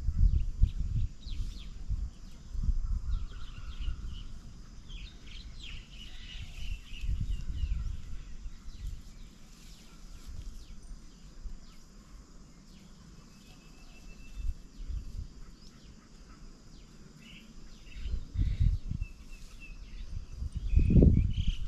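Small birds chirping and calling, mostly short chirps with a few longer notes, over irregular low rumbles that are loudest near the start and again near the end.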